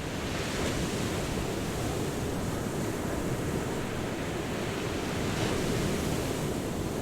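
Ocean surf: a steady rush of waves washing on the shore, swelling slightly about half a second in and again near the end.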